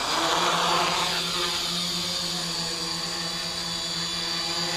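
RC tricopter's three motors and propellers running at a steady pitch with a high whine over a low drone, with a brief rush of air noise in the first second.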